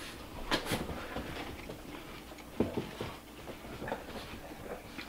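A person chewing a mouthful of cereal in milk, with a few short clicks of a metal spoon against the bowl.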